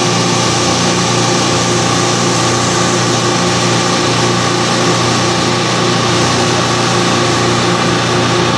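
Boat engine running steadily at a constant speed, a continuous drone with a dense rush of noise over it.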